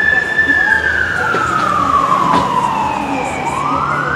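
Fire apparatus siren wailing: a slow glide down in pitch over about three seconds, then a quick rise again near the end, over the hum of the truck's engine.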